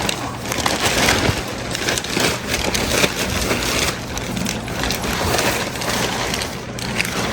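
Packaging around a new crate engine being torn and crumpled: a continuous crackling rustle, with a faint steady hum underneath.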